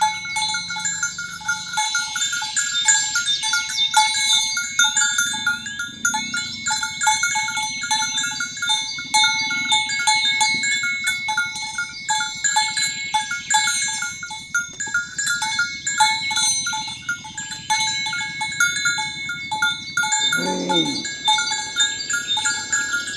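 Bells on a herd of walking cattle clanking irregularly at a few fixed pitches. A cow gives one short moo near the end.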